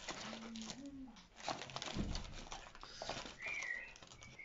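A pet bird calling: a low call about a second long that steps up in pitch near the start, then a brief higher chirp about three and a half seconds in. Light clicks and taps sound throughout.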